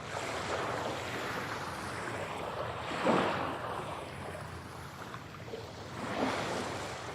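Sea waves washing ashore, a steady rush of surf that swells twice, about three seconds in and again near six seconds, as waves break.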